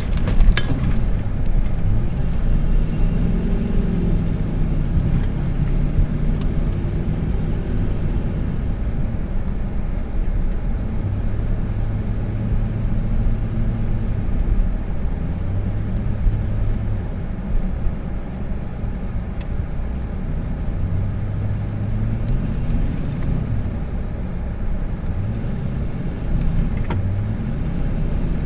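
Vehicle engine revving up and down repeatedly while driving donuts in snow, its pitch rising and falling several times with a few steady stretches between.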